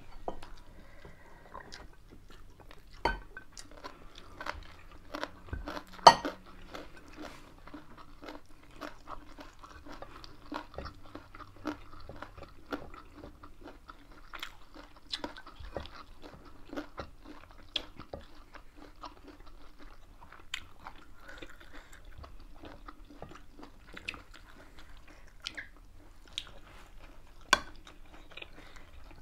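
Close-miked eating: steady chewing and crunching of food, with many small mouth clicks and smacks. A few sharper clicks stand out, the loudest about six seconds in and another near the end.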